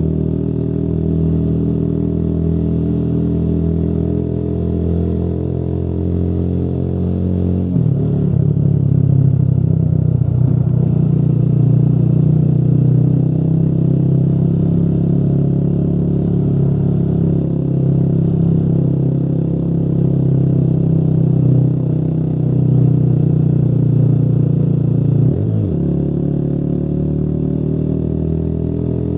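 Motorcycle engine running under way at a steady pace. The engine note changes abruptly about eight seconds in, and a quick rev a few seconds before the end sets it back to its earlier note.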